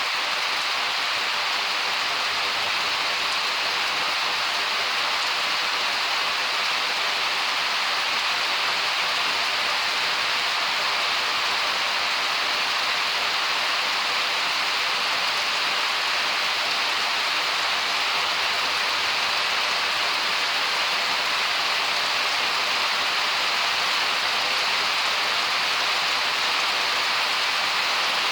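Steady rain from a summer thunderstorm, an even, unbroken hiss that holds at the same level throughout.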